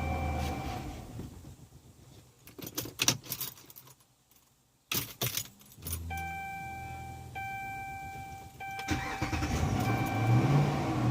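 A 2013 Dodge Durango R/T's 5.7 Hemi V8 dies out in the first couple of seconds, followed by clicks of keys and the ignition and a steady dashboard chime. Near the end the engine runs again and is revved to keep it from stalling, a symptom the owner traced to a faulty fuel pump relay.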